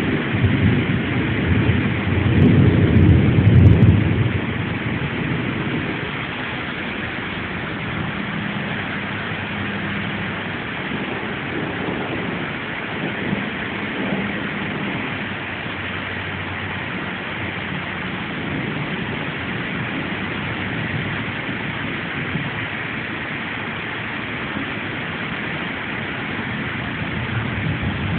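Steady rain falling, an even hiss throughout. A low rumble swells and fades during the first few seconds.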